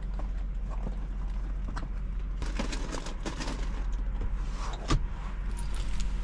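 Items being handled and put away: scattered clicks and rattles, then one sharp knock just before five seconds in, over a steady low hum.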